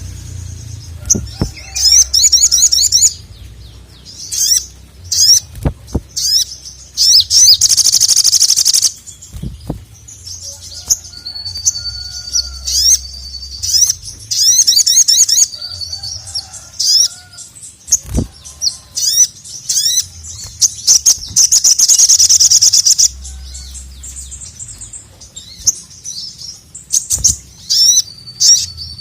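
A sogon (sogok ontong, little spiderhunter) calling hard: high, rapid chattering trills in short bursts, broken by two long unbroken bouts of loud chatter. A few sharp clicks and a low hum sit underneath.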